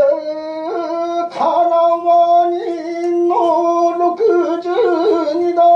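A solo voice singing long, drawn-out notes with wavering ornaments and small breaks in pitch, over a few sparse plucked string notes, in the style of traditional Japanese narrative singing.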